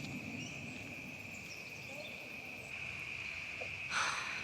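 Insects singing in a steady, high-pitched drone, with faint bird chirps here and there. A short, loud rustling burst comes near the end.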